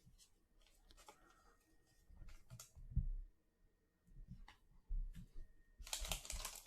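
Faint handling of trading cards and packs on a table: soft clicks and taps with a few low bumps, then a short crinkle of a foil card-pack wrapper about six seconds in.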